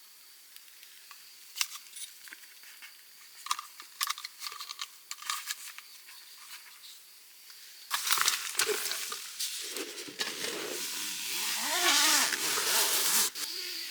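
Faint steady insect chirring with scattered small clicks. From about eight seconds in, a much louder crinkling, rustling noise with wavering tones takes over and stops just before the end.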